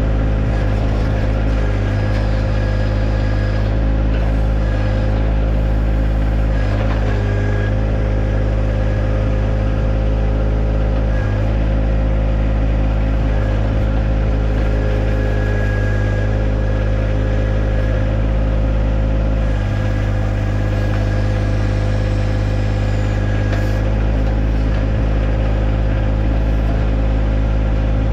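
John Deere 1025R compact tractor's three-cylinder diesel engine running steadily under backhoe work, with a higher whine that comes and goes over the engine note.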